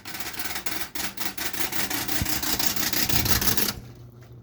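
ToastMaster box fan powered up, its spinning blade rapidly ticking against the fan's handle over the motor's hum. The ticking stops suddenly near the end, leaving the steady motor hum.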